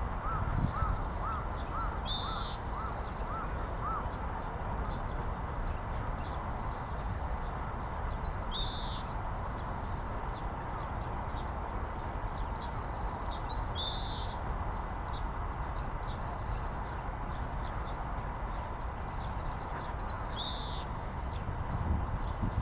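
Oriental greenfinch singing: four short high phrases about six seconds apart, each a brief note followed by a rough burst.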